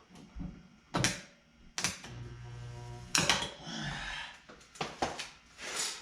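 About five sharp metal knocks as the dented sheet-metal body panel is hammered and pulled out slowly, one of them followed by a pitched ring lasting about a second.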